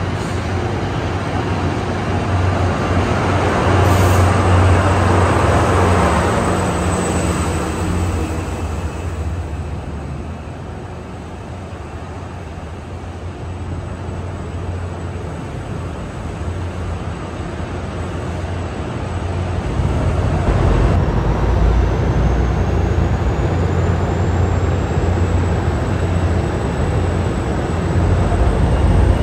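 A passenger train rumbling along the platform, loudest in the first few seconds, then fading away. From about twenty seconds in, an NJ Transit EMD F40PH-series diesel locomotive approaches with a growing low engine rumble and a thin high whine that rises slowly in pitch.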